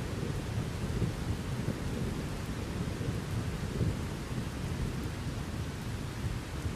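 Steady rain under a continuous low rumble of thunder, easing slightly near the end.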